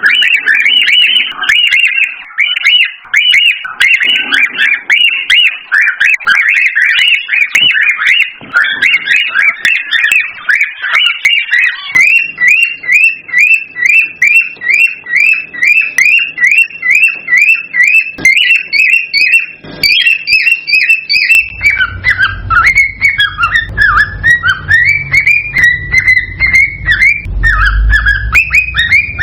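Cockatiels whistling and chirping without a break in quick, high notes. About halfway through, the calls settle into a fast, even run of short rising whistles, about four a second. In the last several seconds the whistles swoop downward over a low rumble.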